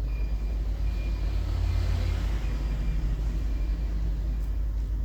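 Steady low background rumble with a faint hiss, unchanging throughout; no distinct clicks or knocks.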